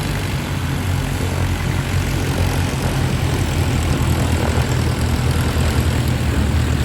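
Bristol Blenheim's twin Bristol Mercury radial engines droning steadily as the propeller aircraft flies its display.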